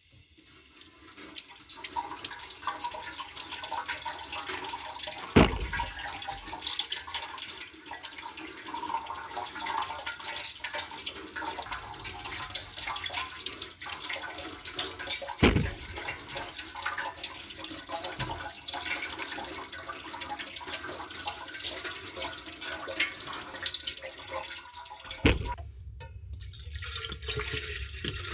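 Water splashing and trickling with many small drips, broken by three sharp knocks spaced about ten seconds apart.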